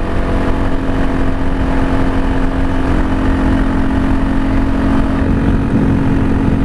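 Motorcycle engine running at a steady speed while being ridden, a constant engine note over a heavy low rumble.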